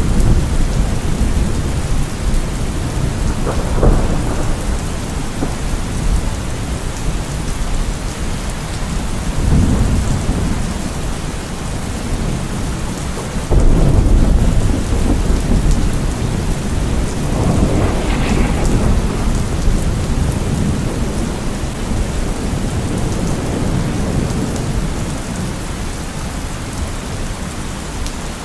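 Thunderstorm: steady rain with several rolls of thunder, the loudest breaking suddenly about halfway through.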